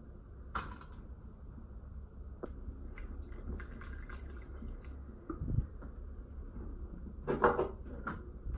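Water dripping and trickling over a steady low hum, with scattered light clicks and knocks, the loudest cluster near the end.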